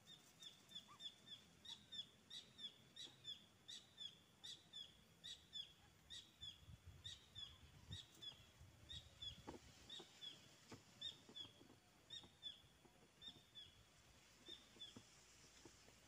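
A bird calling: a quick run of short, high chirps, often in pairs, each dropping slightly in pitch, thinning out and stopping near the end. A few soft rustles come in the middle.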